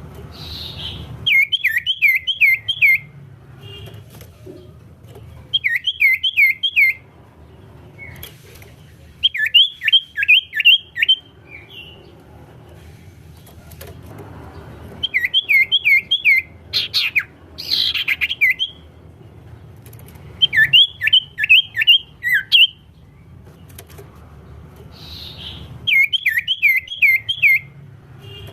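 Common iora (cipow) singing: repeated bouts of five or six quick, sharp chirps, one bout every few seconds, over a faint low hum.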